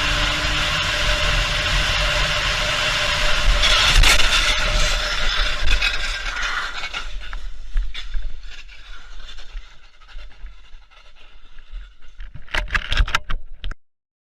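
Car driving noise picked up by a dashcam, with a sudden louder burst about four seconds in; the noise then dies away into scattered clicks and a quick cluster of sharp clicks near the end before the sound cuts off.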